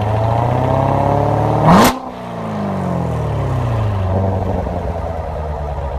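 Corvette C7 Z06's supercharged 6.2-litre V8 revving through a Borla X-pipe with the exhaust valves open. The revs build for about a second and a half, rise quickly to a sharp peak with a crack about two seconds in, then fall steadily back toward idle.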